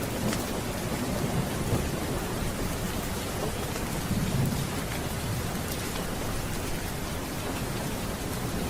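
Steady rain with low rolling thunder underneath, the rumble swelling about four seconds in.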